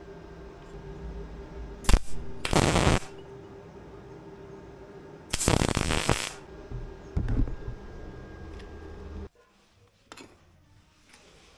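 A sharp knock, then short bursts of a hand power tool in a workshop, each under a second, with smaller bursts after, over a faint steady hum.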